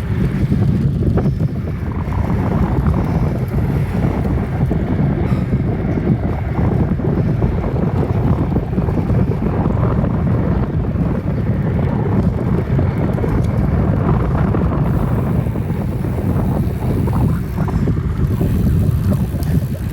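Steady wind rumble buffeting the microphone of a phone on a moving bicycle, with no let-up.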